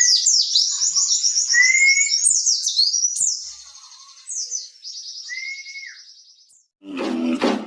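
A white-eye (pleci) singing a fast, high twittering song of quick slurred notes, with a few clear, lower whistled notes that rise and hold. The song drops to softer trills after about three and a half seconds, and music comes in near the end.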